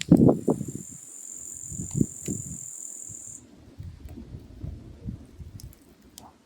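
Firewood burning in a mangal, crackling with scattered sharp pops and low puffs, the loudest just after the start. A high, steady whine runs through the first three and a half seconds and stops suddenly.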